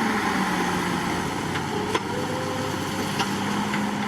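The diesel engine of a heavy earthmoving machine running steadily, with a few faint clicks.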